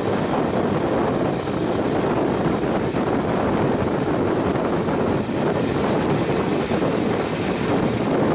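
Steady running noise of a moving passenger train: a continuous rush and rumble with no clear rhythm.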